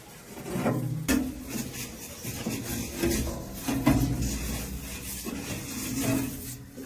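Irregular rubbing and scraping with several sharp knocks, the sound of objects being handled and worked.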